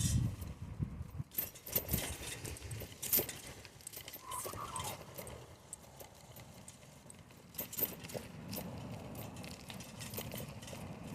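Irregular clicks and rattles from a bicycle being ridden along a path, with a brief squeak about four seconds in.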